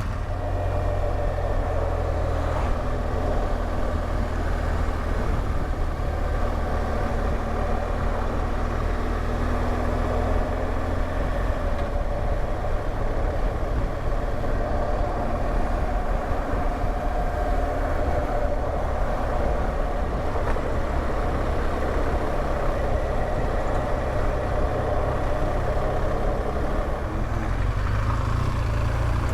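A BMW R1200GSA's boxer-twin engine running steadily, heard from on board the motorcycle.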